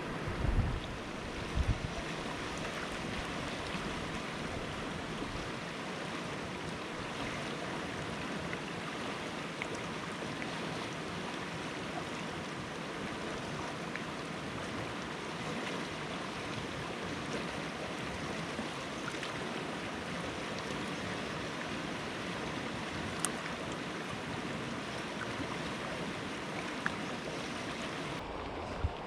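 Fast-flowing creek rapids rushing steadily, with a few bumps of wind on the microphone in the first two seconds.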